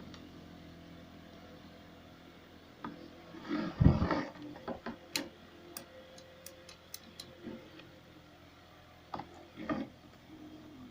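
Scattered knocks and sharp clicks of hard parts being handled, over a faint steady hum. The loudest is a knock about four seconds in, with a quick run of clicks in the middle.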